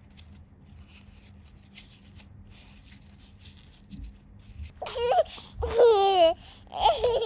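Faint light clicks from handling, then about five seconds in a high-pitched baby's voice laughing and babbling in three short runs, its pitch wavering up and down.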